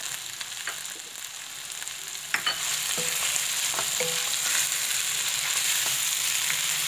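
Minced meat sizzling in hot oil in a non-stick wok while spices are stirred in; the sizzle gets louder about two and a half seconds in as a spatula starts stirring it, with a few clicks of the utensil against the pan.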